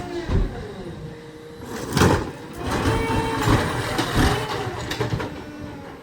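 Garbage truck at work: a thump and a falling hydraulic whine, then a loud bang about two seconds in and a run of metal clanks and knocks.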